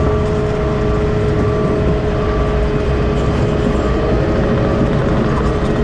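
Heavy truck running down the road, a steady engine and road-noise drone with a constant whine held at one pitch.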